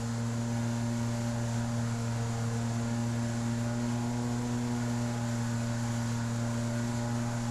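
Outboard jet motor of an inflatable jet boat running at a steady cruising speed, an even hum that holds the same pitch throughout.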